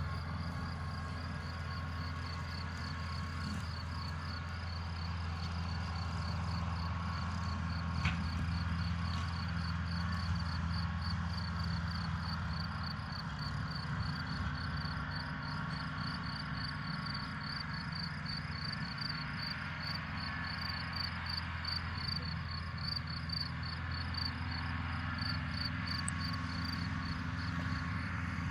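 Crickets chirping in a steady, evenly paced high trill over the low steady drone of a distant tractor engine mowing grass.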